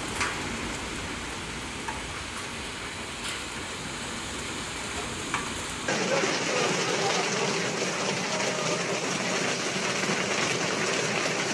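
Heavy rain with wind in a storm: a steady rushing hiss that switches abruptly about six seconds in to a louder, brighter downpour.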